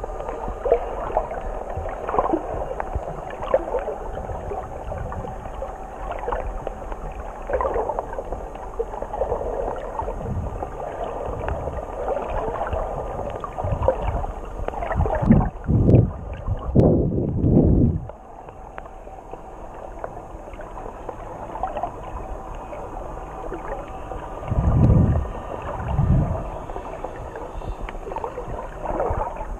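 Muffled sea water heard through a camera held underwater: a steady rushing and bubbling. Louder low whooshes come about halfway through and again a few seconds before the end.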